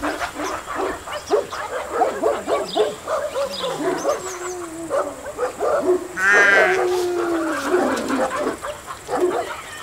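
A group of deer calling: many short calls overlapping one another, with one longer, louder call about six seconds in.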